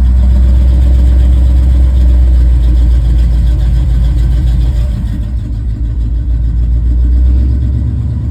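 Chevrolet C20 pickup's engine running just after a cold start, unevenly, the level dipping after about five seconds and swelling again around seven.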